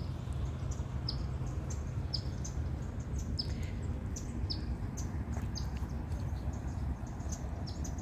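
A small bird chirping repeatedly: short, high, downward-sliding chirps about once a second, over a steady low background rumble.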